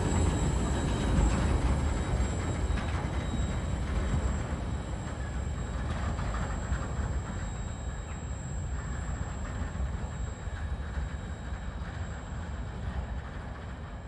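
Tasrail freight train's wagons rolling past on the track, a steady low rumble with occasional wheel clacks, fading away as the train leaves.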